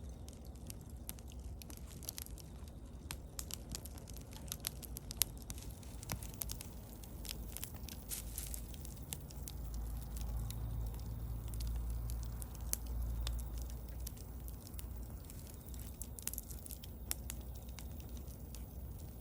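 Wood bonfire crackling, with frequent sharp pops and snaps over a low rumble that swells for a few seconds in the middle.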